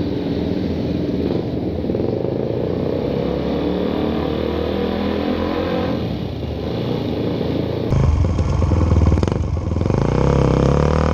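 Suzuki Satria FU 150's single-cylinder four-stroke engine running through a gutted ('bobokan') stock muffler while riding slowly at low revs. About eight seconds in, the exhaust note turns abruptly deeper and louder.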